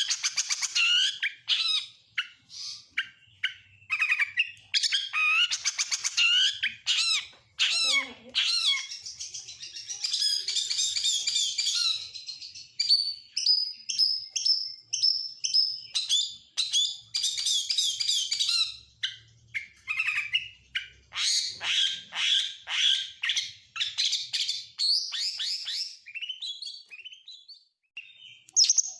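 Oriental magpie-robin (kacer) singing a long, varied song of whistles, rapid trills and chirps, stuffed with mimicked phrases of other birds such as lovebirds, canaries and prinias. There is a brief pause near the end.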